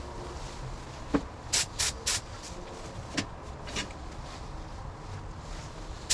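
Paint spray gun giving short hissing bursts of air and paint, three in quick succession and one more a little later, with a couple of sharp clicks between them.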